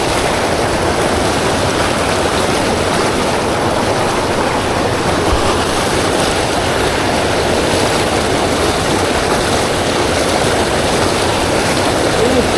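Steady rush of river water, an even hiss that does not change.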